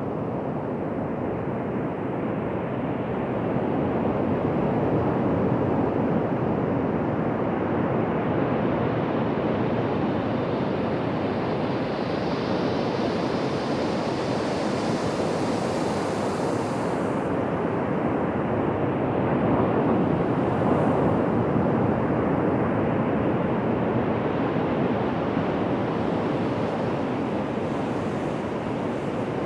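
Ocean surf breaking and washing onto a beach in a continuous rush, swelling a little about four seconds in and again around twenty seconds. A higher hiss joins from about ten seconds and stops abruptly near seventeen seconds.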